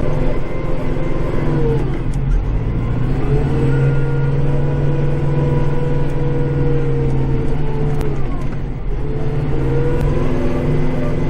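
Kubota tractor's diesel engine running under load, heard from inside the cab. Its pitch sags about two seconds in and climbs back, then sags and recovers again near the end.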